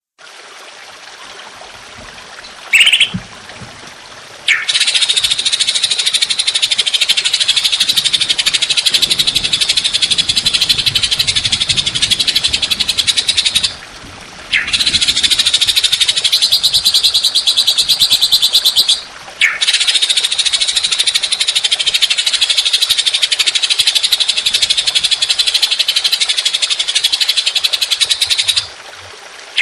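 Animal calls: long, harsh, rapidly pulsed buzzing trills, in three bouts of several seconds each. A short chirp comes about three seconds in.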